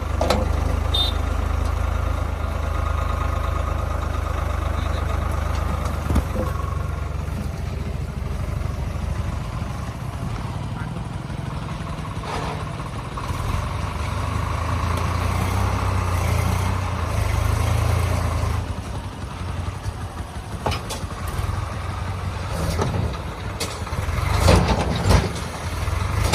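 Tractor engine running steadily at a low, even note. Several sharp knocks come near the end.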